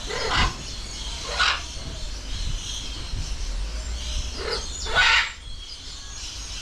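Macaws squawking: four harsh screeches, one about half a second in, one at about a second and a half, and two close together near five seconds, the last the loudest.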